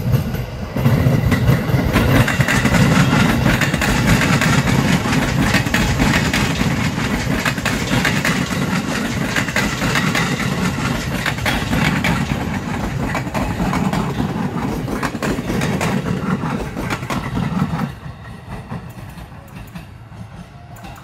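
JR 205-series electric commuter train (KRL) passing close by, a steady low rumble with rapid clicking of wheels over rail joints. The noise cuts off suddenly near the end.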